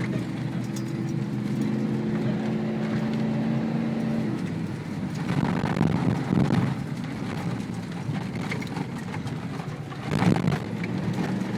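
Ford Bronco running along a rough dirt trail, heard from inside the cab: a steady engine drone whose pitch shifts about a third of the way in, with two louder rough stretches, about halfway and near the end.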